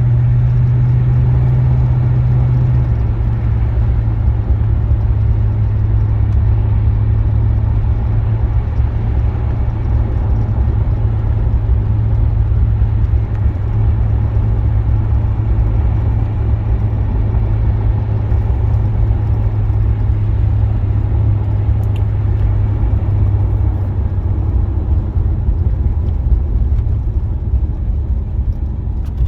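1976 Oldsmobile Cutlass Salon's 455 Rocket V8 and tyres on the road while driving, a steady low drone that drops a little in pitch about three seconds in and again near the end.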